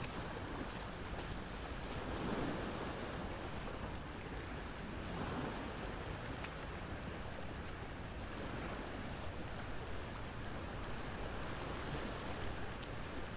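Wood fire crackling with scattered small sharp pops over the steady wash of ocean surf, with waves swelling about two and five seconds in.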